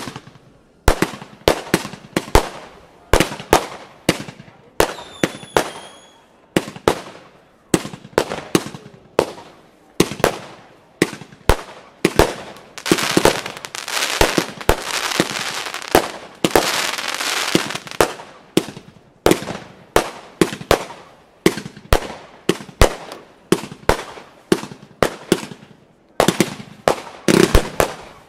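A 216-shot consumer fireworks battery firing in rapid succession: sharp launch bangs and bursts come several a second, with stretches of crackling in the middle of the run. A faint falling whistle about five seconds in.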